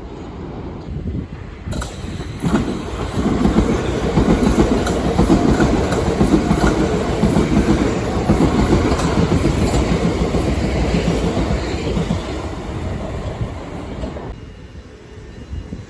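A train passing close by, its wheels clicking over the rail joints. It comes in abruptly about two seconds in, holds loud for about ten seconds, and drops away near the end.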